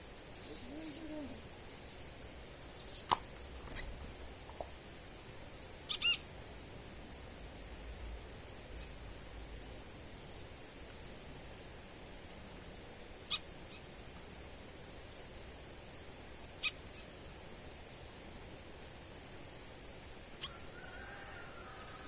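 Songbird chirping: short, high single chirps every few seconds, with a quick run of call notes about six seconds in and a few sharp clicks in between.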